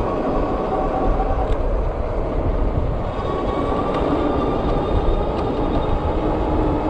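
Steady wind rush and road rumble from riding a bike, with the wind buffeting the microphone.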